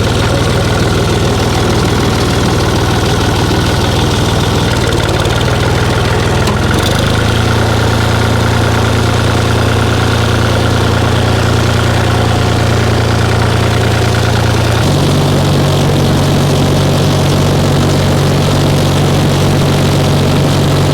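Oliver 1286 four-wheel-drive tractor's diesel engine running steadily, its note stepping to a higher pitch twice, about a third of the way in and again about three-quarters through. The alternator is charging now that the frayed battery cable has been repaired.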